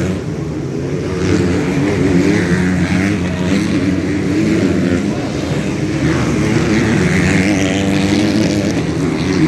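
Motocross bike engines running hard during a race, their pitch rising and falling as the riders rev through the course.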